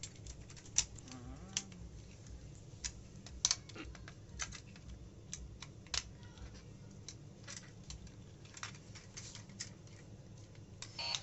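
Irregular sharp clicks and taps, a few a second, of small hard plastic parts being handled, over a low steady hum.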